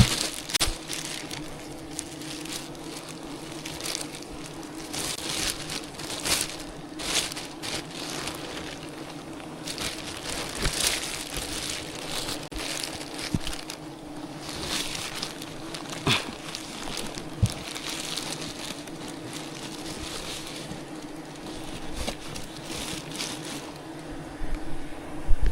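Honeybees buzzing as a steady hum, with scattered crunching and rustling sounds and a few sharp clicks over it.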